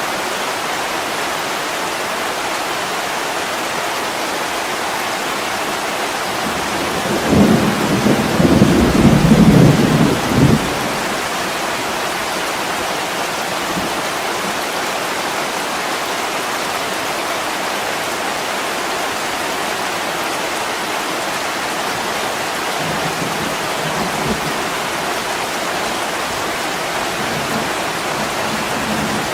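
Heavy rain falling steadily on a window, with a loud rumble of thunder about seven seconds in that lasts some three seconds, and fainter low rumbles later on.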